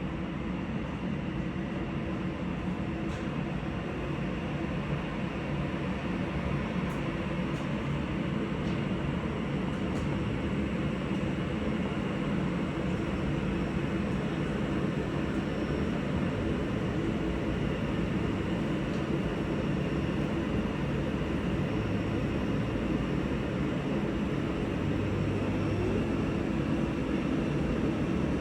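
Steady rumble of jet airliner engines running at low taxi power, growing slowly louder.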